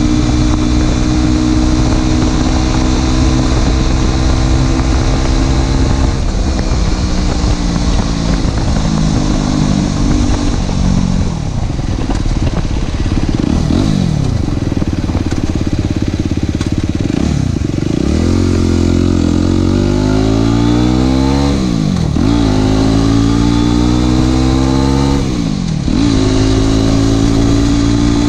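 Aprilia SX 125's single-cylinder four-stroke engine, loud through an Arrow exhaust with the dB killer removed, under way. It holds steady revs at first and then eases off. In the second half the revs drop sharply and climb again several times as it is shifted through the gears.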